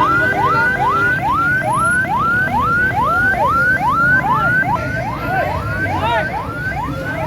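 Electronic siren yelping: a quick rising sweep repeated about two and a half times a second, over a steady low background din.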